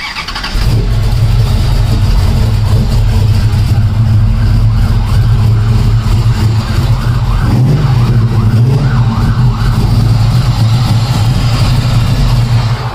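A vintage muscle car's V8 fires up about half a second in and idles loudly with a deep, steady rumble.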